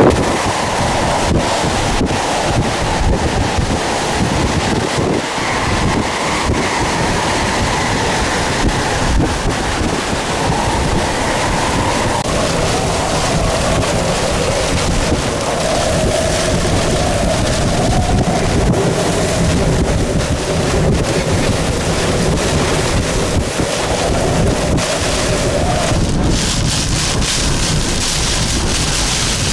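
Hurricane-force eyewall winds roaring continuously, with a howling tone that wavers up and down in pitch and wind buffeting the microphone. A harsher hiss comes in near the end.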